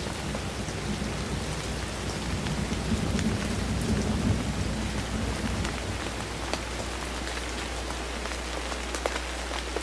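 Steady rain falling, an even hiss with scattered sharp drop ticks and a low rumble that swells a few seconds in, used as an interlude between songs.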